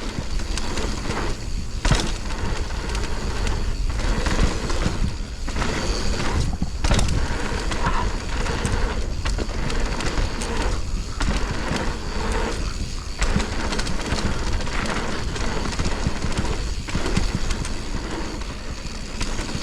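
Mountain bike rolling fast down a dirt trail: wind buffeting the microphone and tyre noise on the dirt, with scattered knocks and rattles from the bike over bumps.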